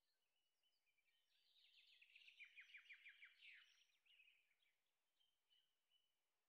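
Faint birdsong: scattered chirps, with a brief fast trill of short falling notes about two and a half seconds in.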